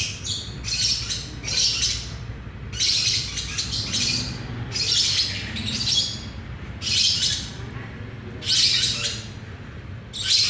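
Lovebird chattering in repeated bursts of high-pitched chirps, a fresh burst about every second.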